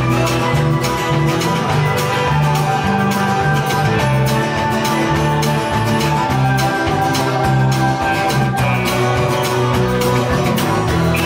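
Live band music with no vocals: guitar playing over a bass line and a steady beat.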